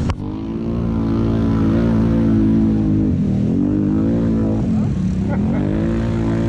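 ATV engine running under throttle, its revs dropping briefly twice and climbing back. A sharp knock sounds right at the start.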